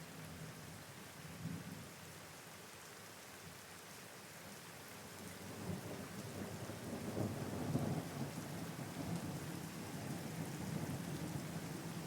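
Steady rain falling, with thunder rumbling low: a short rumble about a second and a half in, then a longer, louder rumble that builds about halfway through and carries on.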